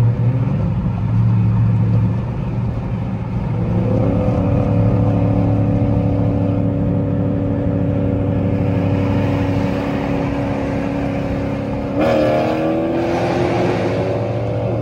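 Car engines accelerating hard in a race pull, over a steady deep engine drone: the engine note climbs about four seconds in and holds, then jumps and climbs again about twelve seconds in.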